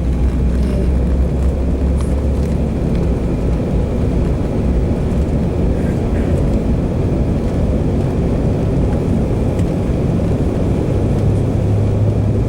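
Airliner engines running steadily, heard from inside the passenger cabin as a loud, even rumble. A low hum rises slightly near the end.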